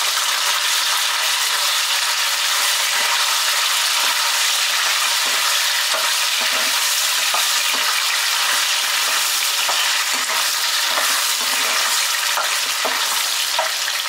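Soya chaap pieces sizzling steadily as they fry in hot ghee, with light scattered taps and scrapes of a perforated steel skimmer stirring them in the pan.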